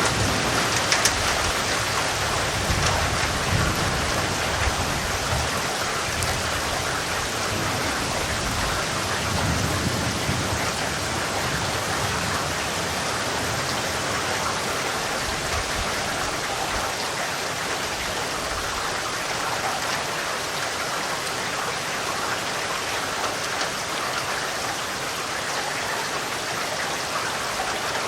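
Steady heavy rainfall, a dense even hiss of falling rain. A low rumble of thunder swells and fades twice in the first half and dies away.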